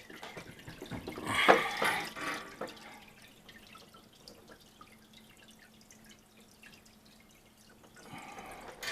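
Water trickling and dripping inside an Ice-O-Matic ice machine as its water pump circulates water, under a faint steady hum. A louder burst of noise comes about a second and a half in, and the water sound rises again near the end.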